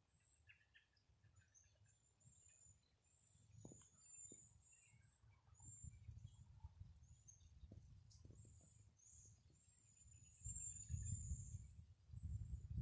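Faint outdoor quiet with many short, high, thin bird chirps and a few small clicks; a low rumble rises about two-thirds of the way through.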